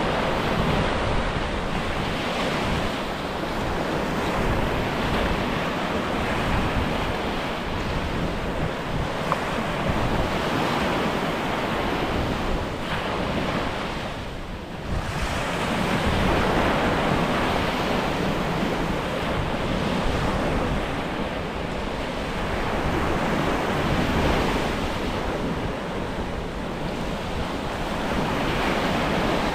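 Waves washing in steadily, with wind buffeting the microphone; the noise swells and eases, with a brief lull about halfway through.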